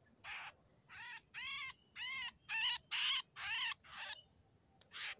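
A trocokan, a bulbul, calling: a string of about nine short, harsh notes, each arching up and down in pitch, coming about two a second.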